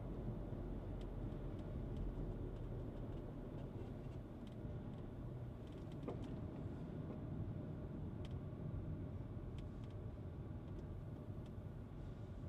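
Skoda Kushaq driving, with a steady low engine and road rumble. Faint, irregular clicks sound every second or so.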